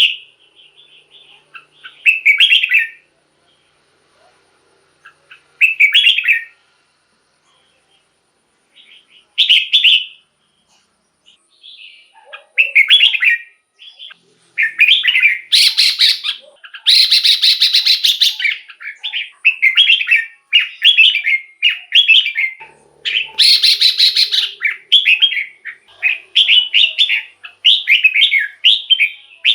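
Red-whiskered bulbul singing short, bright warbled phrases. At first the phrases come a few seconds apart; from about halfway they run almost back to back, with a few louder, fuller bursts.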